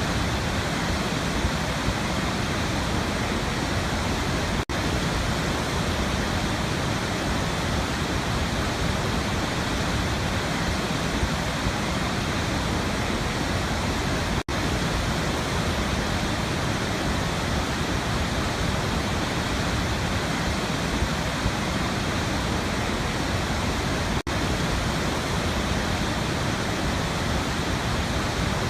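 Waterfall: a steady, even rush of falling water. It drops out for an instant three times, about ten seconds apart.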